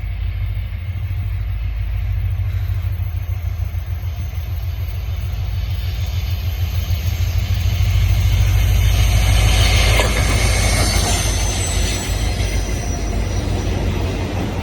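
Four CN diesel-electric locomotives, EMD SD40-2s and GE C40-8s, running light without cars and passing by. A heavy low engine rumble builds to its loudest about nine to ten seconds in, where hissing wheel-and-rail noise rises with it, then eases a little.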